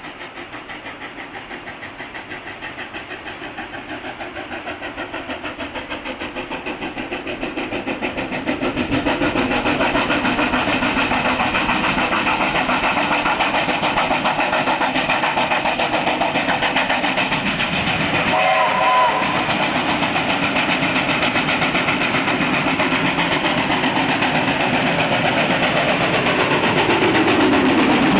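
Steam train approaching and running past at speed, growing louder over the first ten seconds. Its whistle gives one short wavering toot about two-thirds of the way through.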